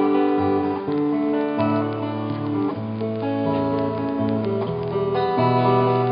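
Acoustic guitar strumming chords, an instrumental passage of a live song with no singing.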